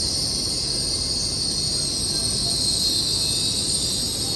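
LNER Class 801 Azuma train arriving at a platform, with a steady high-pitched squeal from its wheels and brakes over a low rumble.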